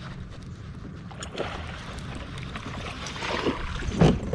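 Water splashing beside a kayak as a hooked bass is pulled in, growing louder over the last few seconds, with one sharp thump near the end.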